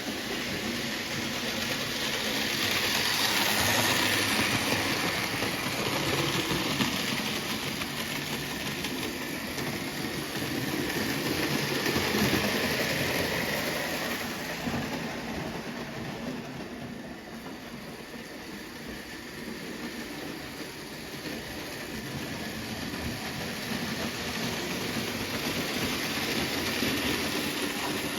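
HO scale Märklin BR 038 model steam locomotive (3099) and its passenger coaches running on metal Märklin M track, a steady mechanical running sound that swells and fades as the train goes round the layout. It is loudest about 4 and 12 seconds in and quietest around 17 seconds.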